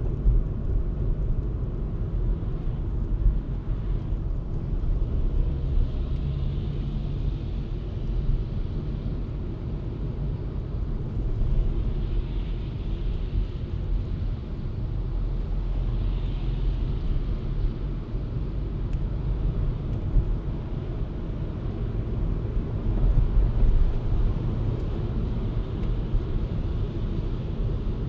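Steady low rumble of a car driving, with road and tyre noise. A higher hiss swells and fades three times between about six and seventeen seconds in.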